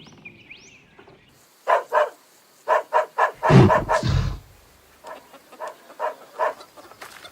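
A dog barking again and again in quick runs of short yelps. A loud, deep rumble comes in about the middle.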